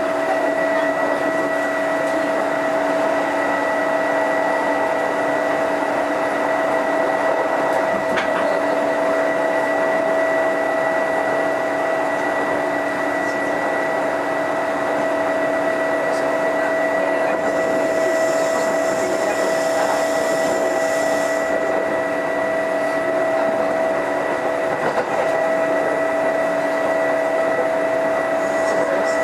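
Running sound inside a Kintetsu 2430 series electric train: a steady rumble of the car with several constant-pitch whining tones held throughout.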